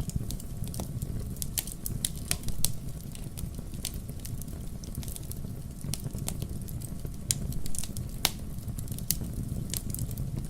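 Fire burning in a fireplace: a steady low rumble of flames with frequent, irregular sharp crackles and pops, a couple of louder pops about two and a half and eight seconds in.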